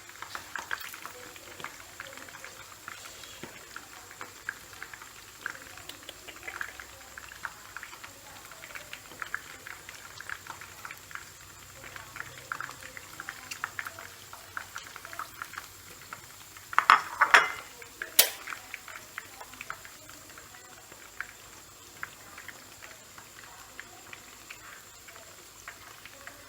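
Hot oil crackling and popping around wings frying with lemongrass and mắc khén. A metal utensil clatters against the pan about two-thirds of the way through.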